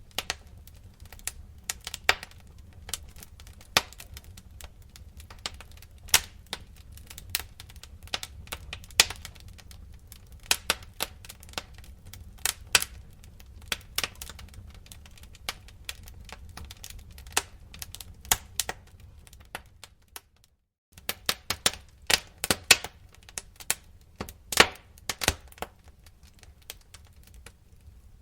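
Wood fire crackling, with irregular sharp pops and snaps over a steady low rumble. The sound drops out completely for a moment about two-thirds of the way through.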